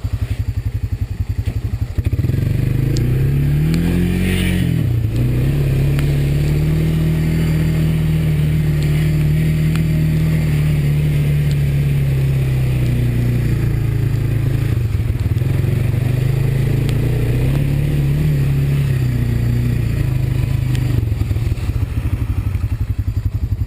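Honda quad's single-cylinder four-stroke engine pulling along a trail, picking up and revving briefly about four seconds in, then holding a steady pull with small dips and rises in pitch.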